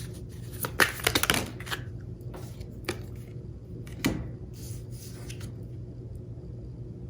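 Tarot cards being shuffled: a quick run of card flicks about a second in, then a few single soft card taps, over a faint low hum.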